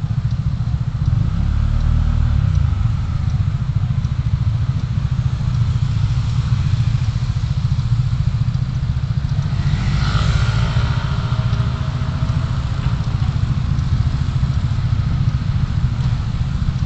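Steady low rumble of a motor vehicle on the move, engine and road noise together. About ten seconds in, a brief louder passage comes in higher up, with tones that fall in pitch, as another vehicle goes by.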